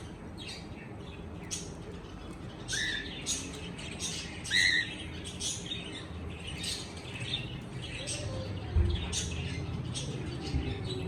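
Cockatiel chirping repeatedly, with a couple of rising whistled calls about three and four and a half seconds in. A dull low bump comes about nine seconds in.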